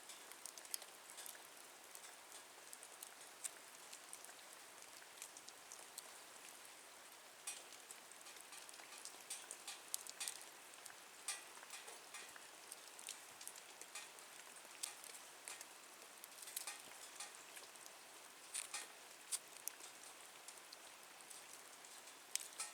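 Small wood fire burning in a Nature Stove, crackling with frequent irregular sharp pops and snaps over a soft hiss.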